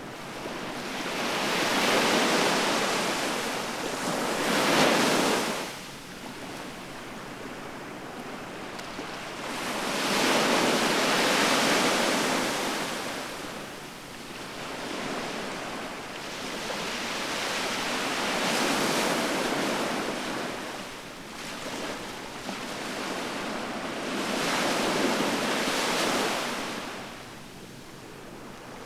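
Ocean waves breaking and washing back on the shore, swelling and ebbing every few seconds, about five surges in all, with the loudest crash about five seconds in.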